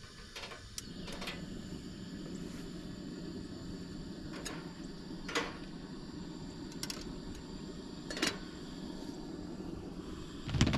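Wood campfire burning: a steady hiss with irregular sharp crackles and pops, about eight of them.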